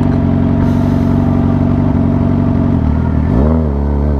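Sportbike engine running at steady revs, then the revs dip and climb again about three seconds in.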